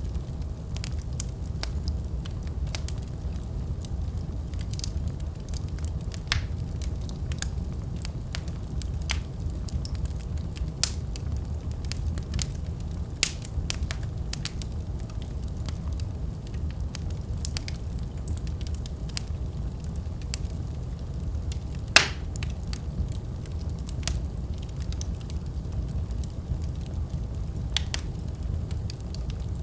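Wood fire burning in a fireplace: a steady low rumble of flames with scattered sharp crackles and pops, one louder snap about two-thirds of the way through.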